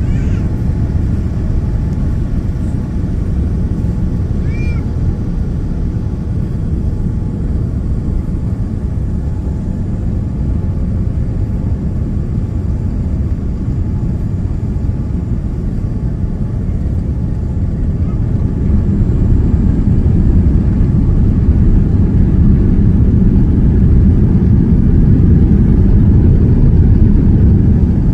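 Steady low rumble of a Boeing 787-9's Rolls-Royce Trent 1000 engines and airflow, heard inside the passenger cabin during the descent to land, growing louder about two-thirds of the way through. A brief high chirp sounds about five seconds in.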